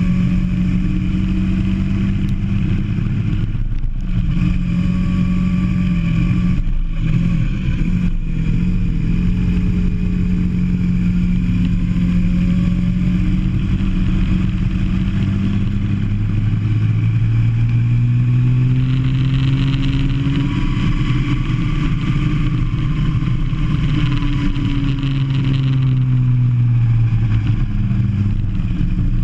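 Go-kart engine running under throttle, heard from onboard the kart, with brief lifts off the throttle about four and seven seconds in; in the second half its pitch climbs and then falls back.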